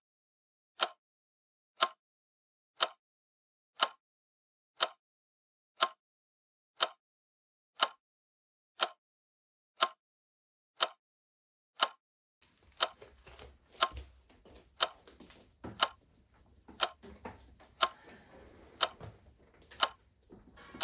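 A clock ticking steadily, one tick a second. About twelve seconds in, faint room noise and scattered small knocks join under the ticking.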